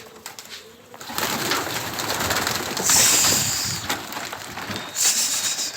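Domestic pigeons cooing, under a louder rushing, crackling noise that surges twice.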